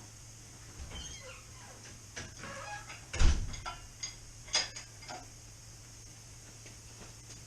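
Workshop handling noises: a few squeaks and metal clanks, with one heavy thump a little past three seconds in and a sharp clank a second later.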